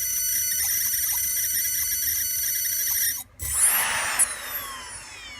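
Brushless RC boat motor driven by a 90 A boat ESC, giving a steady high-pitched electronic whine that cuts out about three seconds in, then a brief rev-up and a whine falling in pitch as the motor winds down. It does not run properly under throttle, which the owner blames on the motor overheating.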